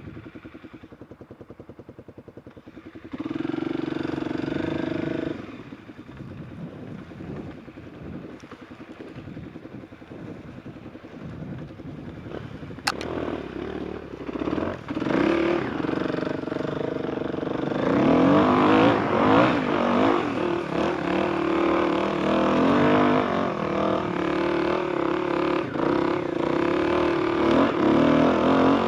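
Enduro motorcycle engine idling with a steady pulse, revved briefly about three seconds in, then revving up and down and running harder, louder from about 18 seconds in. There is a sharp click near the middle.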